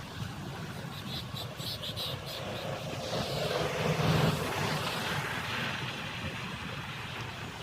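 Wind rumbling on the microphone while cycling, with a steady low rumble that swells about four seconds in and a brief run of faint ticks in the first half.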